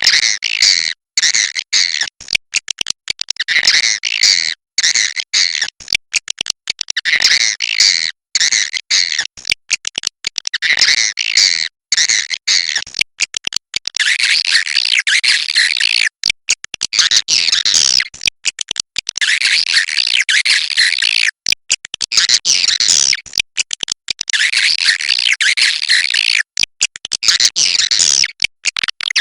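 Swiftlet calls played back as a roosting lure for a swiftlet house: a dense, high-pitched chattering twitter, broken by frequent brief cuts to silence, as in an edited loop.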